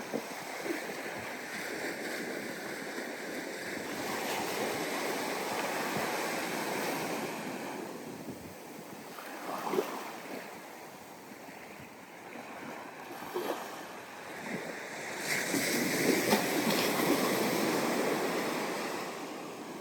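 Ocean waves breaking and washing up a sandy beach, the surf swelling and easing over several seconds, with a louder wave about two thirds through. A few short sharp sounds come in around the middle.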